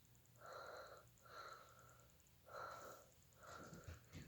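Faint wheezy breathing: soft, slightly whistling breaths at about one a second.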